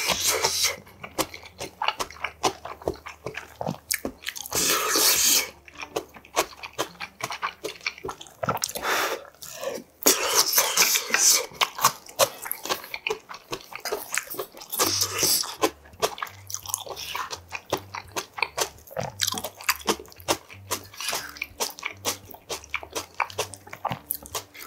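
Close-miked chewing of budae bokkeum (spicy stir-fried sausage, ham, ramen noodles and rice), a dense run of wet mouth clicks broken several times by longer, louder rushes of noise.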